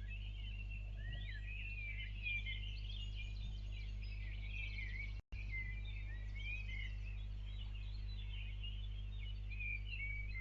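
Many birds chirping and singing together in a dawn chorus, over a steady low hum; all sound drops out for a split second about five seconds in.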